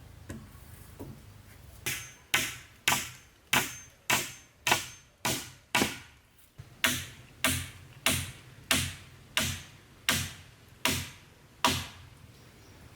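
Steady chopping blows on wood, about sixteen strikes at a little under two a second, in two runs with a short pause near the middle.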